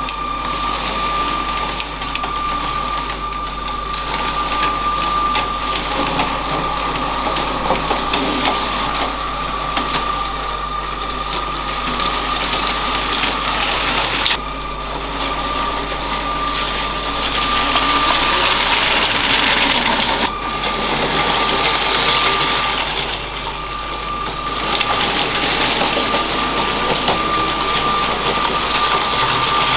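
LEGO train's small electric motor running with a steady high whine, its plastic wheels rattling over the LEGO track. The rattle swells twice, and the whine breaks off briefly twice.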